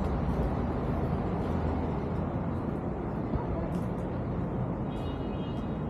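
City street ambience: a steady rumble of traffic with indistinct voices, and a brief high whine about five seconds in.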